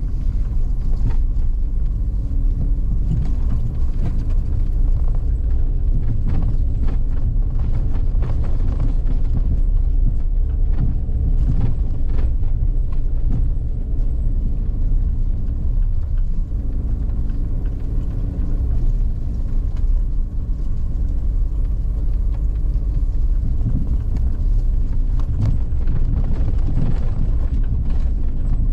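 A vehicle driving steadily: a continuous low rumble of engine and road noise, with scattered short clicks and knocks over rough road.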